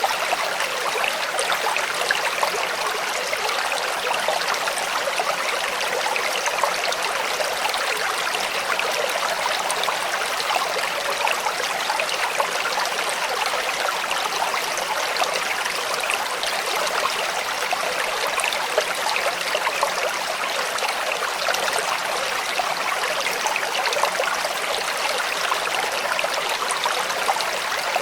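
Clear creek water running over rocks: a steady, even babble and trickle with fine splashes.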